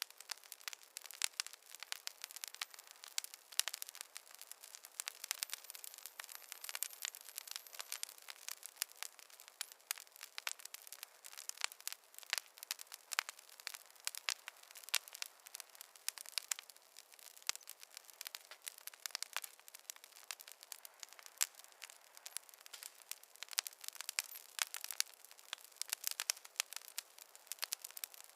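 Wood fire crackling: a steady stream of irregular small pops and snaps over a soft hiss, with no low rumble.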